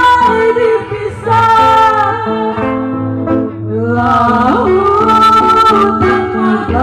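A high, clear voice singing long held notes of a pop-rock ballad over a live band with bass and guitar, with a short breath about three and a half seconds in.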